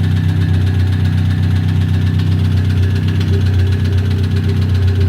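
Engine idling steadily with a rapid, regular knock: a piston striking the cylinder head.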